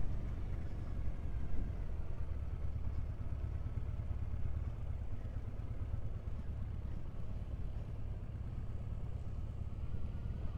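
Triumph Bonneville motorcycle engine running at a steady cruising speed, a continuous low rumble with no revving up or down.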